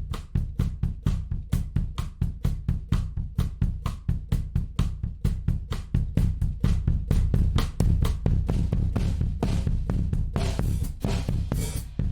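Recorded drum kit playing a busy beat of kick, snare and cymbals, about four or five hits a second, played back through a tape emulation plugin.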